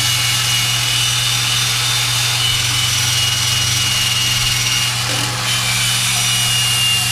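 Power drill spinning a wire cup brush against the rusty steel body of a charcoal grill, grinding off rust with a steady high whine over a harsh scraping.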